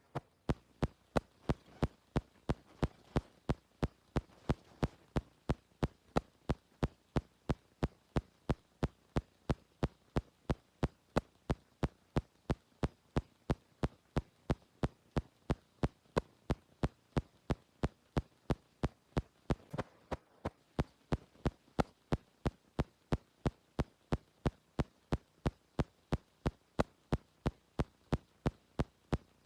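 Rainwater dripping in a fast, very even rhythm, about three sharp drips a second, over a faint steady hiss.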